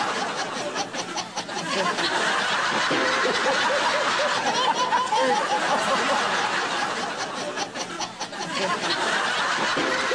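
A baby laughing in short repeated bursts, mixed with a studio audience laughing along.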